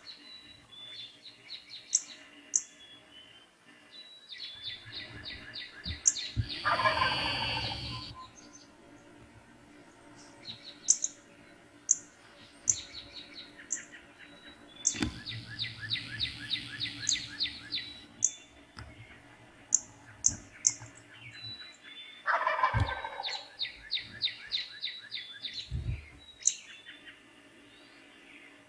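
Wild turkey tom gobbling twice, a loud descending rattle each time, about 15 seconds apart. Songbirds trill and chirp in the dawn chorus around it.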